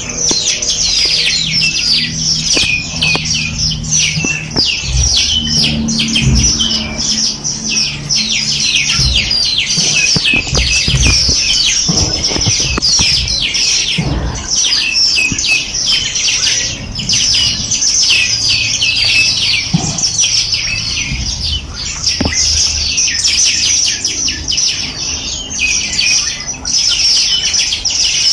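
A dense chorus of many small birds chirping and trilling at once: rapid, high, overlapping chirps with no pause.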